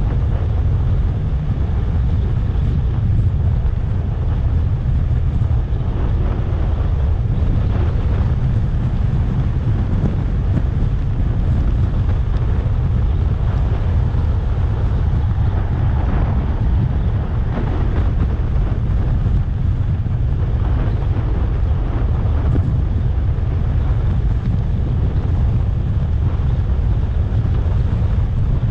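Wind buffeting the microphone of a moving electric scooter: a steady low rumble, with no engine sound from the electric drive.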